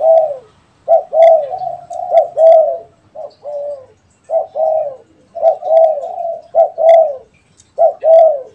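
Spotted doves cooing: loud, repeated phrases of two or three rounded, arching coo notes, with short pauses between phrases.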